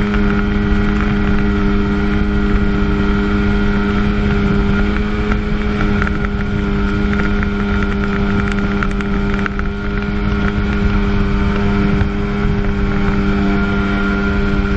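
1997 Sea-Doo GTS personal watercraft's 720 two-stroke twin engine running at a steady high rpm, its pitch stepping up just at the start and then holding, over a constant rush of noise.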